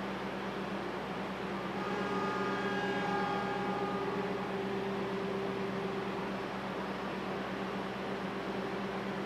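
A train's engine running with a steady low hum and noise. About two seconds in, a faint higher tone with overtones sounds for about two seconds.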